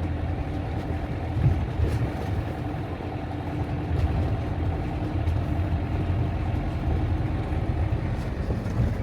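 Motorhome engine running while driving, a steady low drone.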